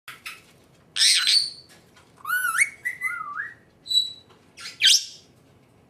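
Senegal parrot calling: a couple of short chirps, a loud harsh squawk, then wavering whistled notes that rise and fall, a short clear whistle and a final loud harsh squawk.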